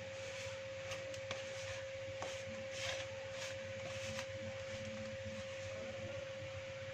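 Hands kneading soft dough, giving faint irregular squishing and soft clicks, over a steady high-pitched hum.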